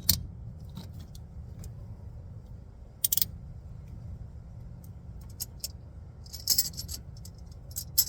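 Ratchet and oil filter wrench clicking and clinking as they are worked on the oil filter. There are scattered light metal clicks, a short cluster about three seconds in and another near the end, over a low steady hum.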